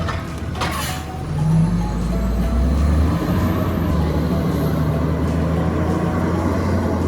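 Diesel engine of a side-loader garbage truck running with a steady low drone that grows louder about a second and a half in, with a short hiss about a second in.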